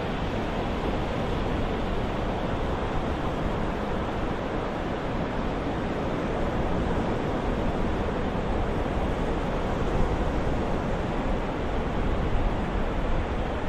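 Ocean-surf white noise: a steady, even rush of waves with no single breaker standing out.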